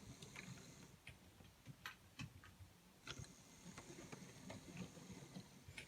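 Bachmann model locomotive crawling slowly along the track: faint, uneven clicks of its wheels on the rails, with a faint high motor whine joining about halfway through.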